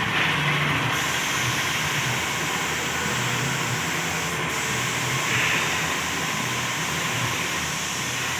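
Steady hiss of a compressed-air paint spray gun, with a low machine hum underneath.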